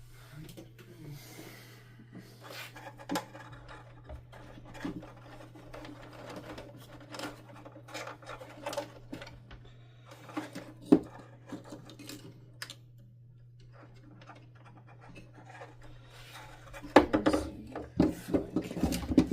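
Hands and a tool working on a Hoover Dimension 1000 vacuum's housing and wiring: scraping, rubbing and scattered clicks, with a sharp click about eleven seconds in and a quick run of clicks and knocks near the end, over a steady low hum.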